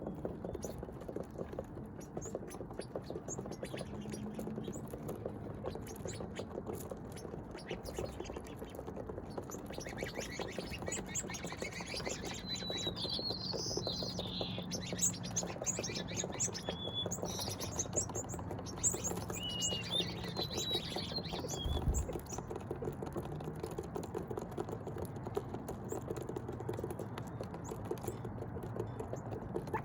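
Small birds chirping and twittering in short high calls, mostly in the middle of the stretch. Underneath runs a constant fine ticking patter.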